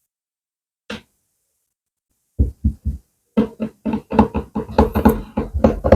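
A series of sharp taps or knocks: a single hit about a second in, three quick taps, then a fast, uneven run of taps that keeps going to the end.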